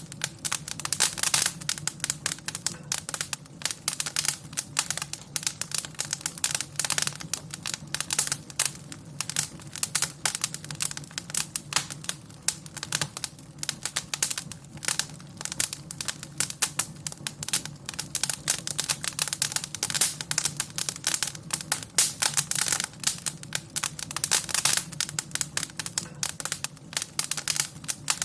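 Wood fire crackling in a fireplace: a dense, irregular run of pops and snaps over a low steady hum.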